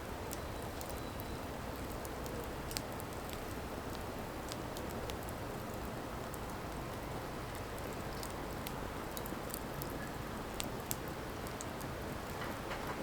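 Firewood burning, with a steady hiss and scattered sharp crackles and pops at irregular intervals.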